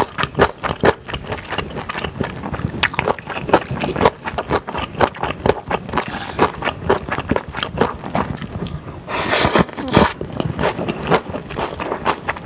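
Close-miked chewing of beef and chewy glass noodles: quick, wet mouth clicks and smacks one after another. About nine seconds in there is a hiss-like burst lasting about a second.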